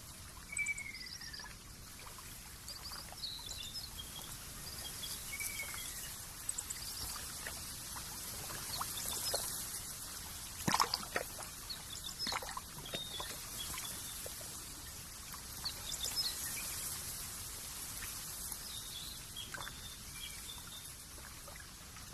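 Nature ambience of trickling water with scattered bird chirps throughout, including two short falling whistles in the first few seconds. A cluster of sharp drips or splashes comes about ten to thirteen seconds in.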